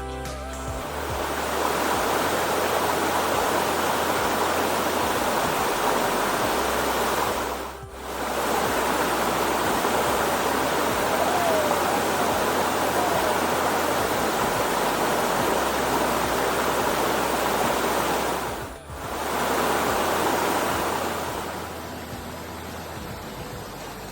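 Waterfall pouring: a loud, steady rush of falling water, with two brief dips about eight and nineteen seconds in, and a drop in level near the end. Soft background music with a low bass runs underneath.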